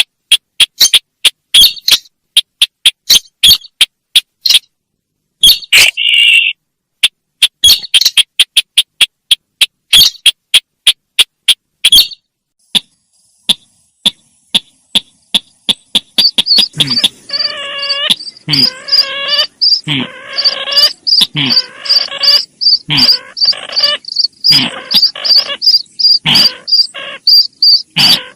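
Sintar bird lure calls: a rapid series of short, sharp chirps, broken by gaps. From about halfway, a high pulsing cricket-like trill runs beneath harsh, raspy chattering calls.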